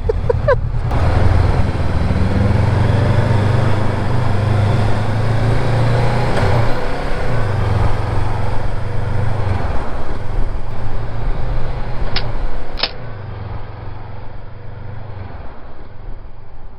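Honda NX500 motorcycle's parallel-twin engine running, its low note shifting in pitch a few times. Two sharp clicks come about twelve seconds in, and after them the sound is quieter.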